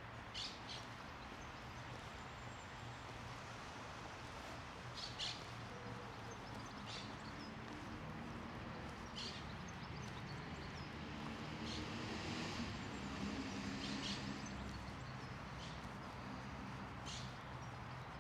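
Small birds chirping in short, high calls every second or few seconds over a steady outdoor background hum.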